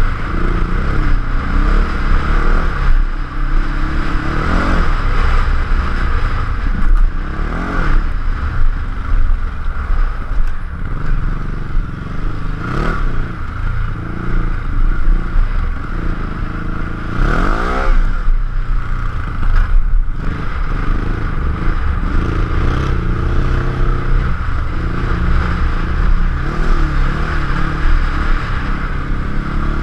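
Ducati Hyperstrada's L-twin engine running as the motorcycle rides a gravel trail, revs rising and falling repeatedly with the throttle, with scraping and clatter from the rough surface.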